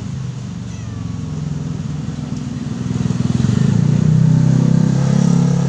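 A motor engine running steadily at low revs, its sound swelling about three seconds in.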